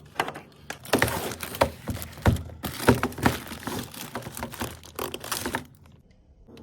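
Food packaging and containers being handled: crinkling and crackling with light knocks and taps. It stops about five and a half seconds in.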